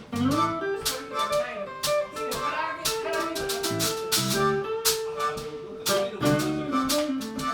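Live blues band playing an instrumental passage: a blues harp (harmonica) plays held, bending lead notes over guitar and drums. The harmonica is in D against a song in A, cross-harp style.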